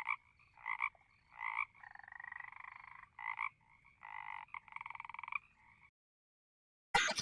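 A frog calling: short croaks repeated about once a second, with two longer pulsed trills in between, stopping about six seconds in. Near the end comes a brief, loud burst of noise.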